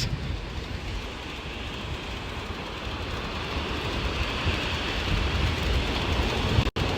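Wind buffeting the microphone over the wash of surf on the beach, a steady rushing hiss that grows slightly louder and cuts out for an instant near the end.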